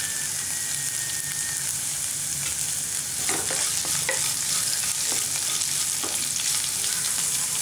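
Chopped onion and curry leaves sizzling in hot oil in a pan, with a steady hiss. From about three seconds in, a wooden spatula stirs them, making a few short scrapes and taps against the pan.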